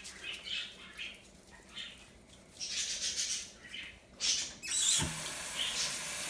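Kitchen sink faucet turned on about five seconds in, water then running steadily into the sink. Before that, scattered light rustling and clicking.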